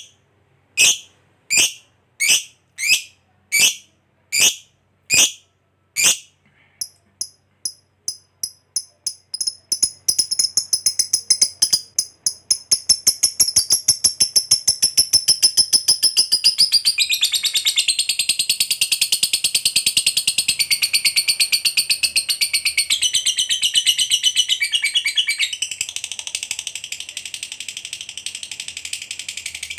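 Lovebird giving its 'ngekek' song. Sharp single high calls come about every 0.7 s, then speed up from about seven seconds in and run together into a long, fast chattering trill: the long ngekek ('ngekek panjang').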